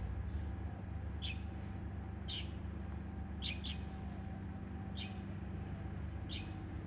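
A bird giving short chirps that drop quickly in pitch, about six or seven spaced irregularly, some in quick pairs, over a steady low background hum.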